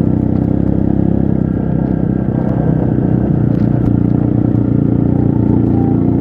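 Trail motorcycle engine running steadily at a constant pitch, with a few sharp clicks and clatter mixed in.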